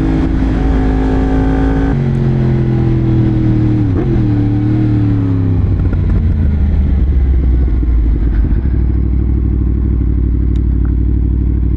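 A 2018 Yamaha MT-10 SP's crossplane inline-four running through an SC-Project exhaust. It rises in revs, then drops sharply about two seconds in and again about four seconds in. From about halfway it settles to a low, steady note.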